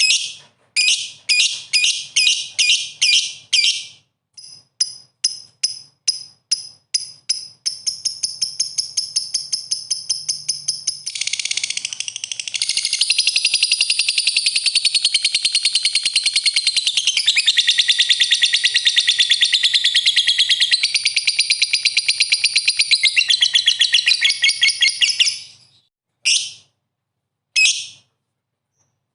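Lovebird calling: a quick series of sharp, shrill chirps, then, about a third of the way in, a long unbroken rapid chattering trill lasting some fourteen seconds, ending in a few single chirps.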